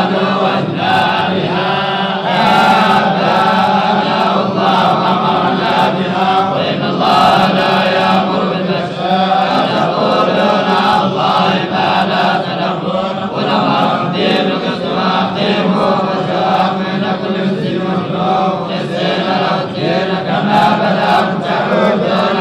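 Quran recitation chanted in a continuous melodic line by male voice, with a steady low drone beneath the melody and no pauses.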